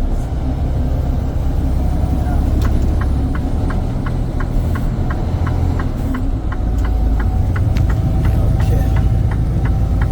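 Truck engine running with a steady low rumble. From about two and a half seconds in, an even ticking of roughly two to three clicks a second, like a turn-signal flasher, runs on.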